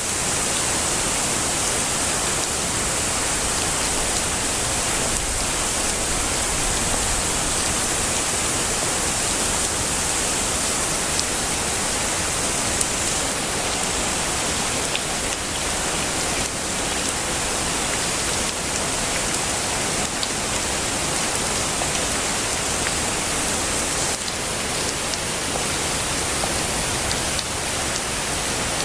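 Heavy rain falling steadily: a dense, even hiss with scattered individual drops tapping through it.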